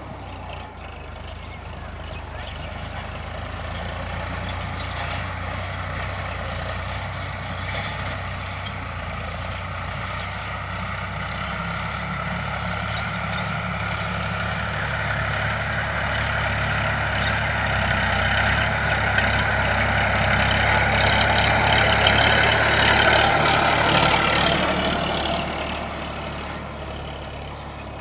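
Tractor diesel engine running, a steady low drone with broad noise that grows gradually louder for over twenty seconds, then falls away suddenly near the end.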